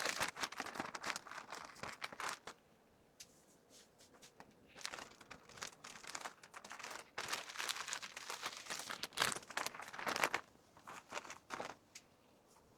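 Plastic packaging crinkling and rustling as merchandise is handled, in irregular bursts with short quiet gaps between them.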